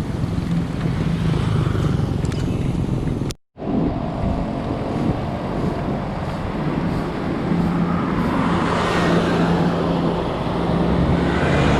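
Steady road and wind noise with vehicle engine sound while riding along a road. The audio cuts out briefly a little over three seconds in, and the noise grows louder near the end.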